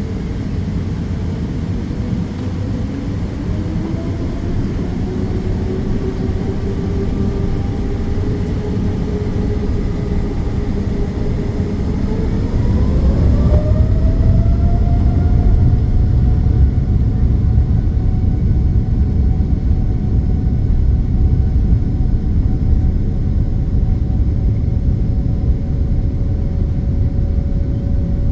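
Boeing 787-9's Rolls-Royce Trent 1000 engines spooling up for take-off, heard from inside the cabin: a whine rising slowly in pitch, climbing sharply about twelve seconds in and then holding steady at take-off thrust. A low rumble grows louder as the take-off roll begins.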